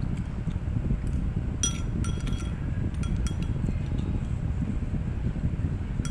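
A metal spoon or fork clinking against a plate or bowl several times, in a cluster of ringing clinks over a couple of seconds in the middle.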